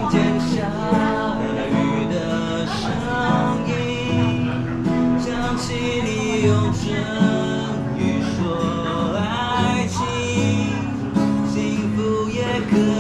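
Acoustic guitar strummed and picked in an instrumental passage of a song.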